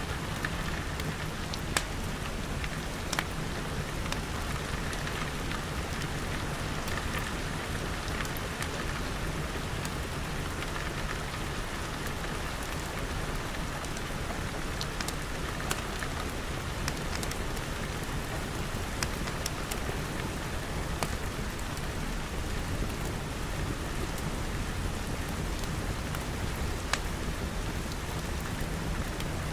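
Steady rain pattering on glass walls and roof, with a few sharp, isolated crackles from a wood fire.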